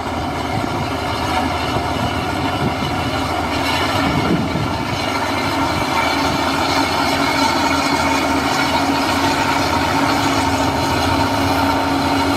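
Heavy diesel engine of earthmoving machinery, a bulldozer or dump truck, running steadily with a constant droning tone.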